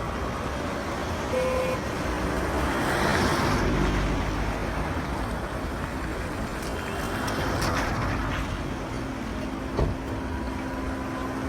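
Street traffic: a steady wash of passing vehicle engines and tyres, with a sharp knock about ten seconds in.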